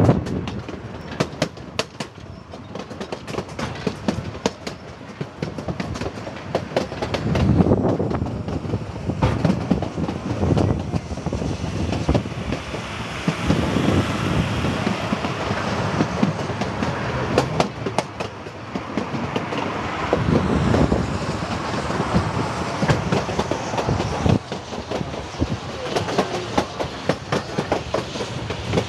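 Durango & Silverton narrow-gauge passenger train rolling along, its wheels clicking irregularly over the rail joints over a steady rush of running noise, heard from an open car.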